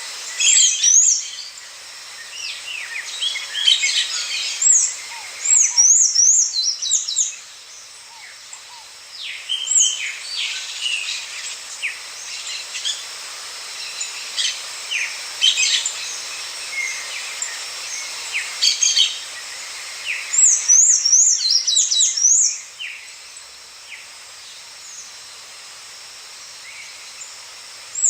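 Several songbirds singing and calling: many short high chirps and quick gliding notes, with one rapid up-and-down warbling phrase that recurs several times, over a steady background hiss.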